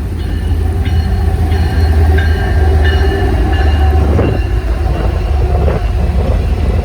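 Train passing close by on the mainline: a heavy, steady low rumble with high metallic tones from the wheels and rails that come and go through the pass.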